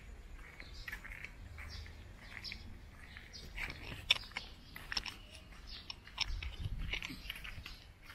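Small birds chirping in short, scattered calls over close crunching clicks and a low rumble.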